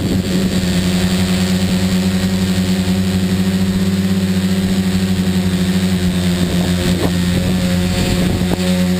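Tricopter's electric motors and propellers buzzing steadily in flight, with a few brief pitch changes late on as the throttle is adjusted.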